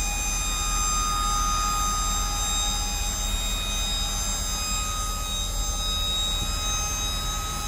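Dump truck's engine and hydraulic hoist running steadily while the hoist is worked, a low rumble with a steady high-pitched whine over it.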